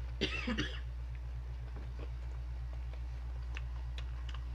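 Crisp pork rinds (chicharon) being chewed, heard as faint scattered crunches over a steady low hum. A short wavering vocal sound comes just after the start.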